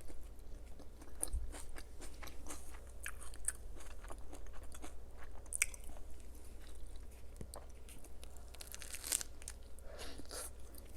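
Close-miked chewing of crunchy food: a steady run of short, crisp crunches as a person bites and chews.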